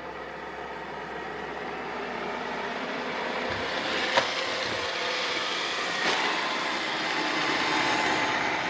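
Roomba robot vacuum running, its motor and brushes making a steady whirring noise that grows louder. A sharp click about four seconds in and a smaller one about two seconds later.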